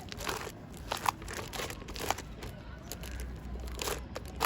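Slime being kneaded and stretched by hand with shaving foam mixed in, giving irregular crackles and small squishy pops.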